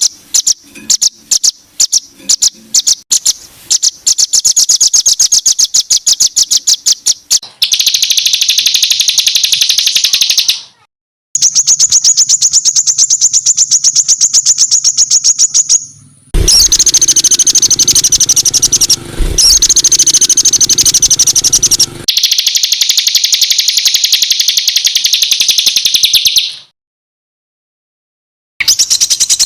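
Songbird giving harsh, high-pitched rapid-fire calls, the 'tembakan kasar' used as tutor song for competition birds. The notes start as spaced chips that speed up into long, fast buzzy trills, which stop dead into short silences about eleven seconds in and again near the end.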